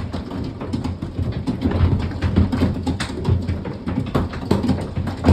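Large hailstones pelting a house: a dense, irregular clatter of hard impacts over a steady low rumble.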